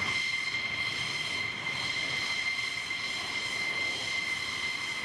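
Jet aircraft engine running with a steady high-pitched whine over a rush of noise.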